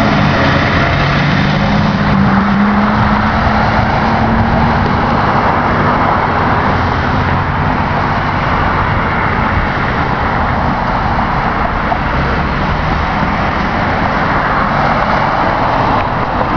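Fire engine's engine accelerating, its note rising for a few seconds about two seconds in, over steady loud road and traffic noise.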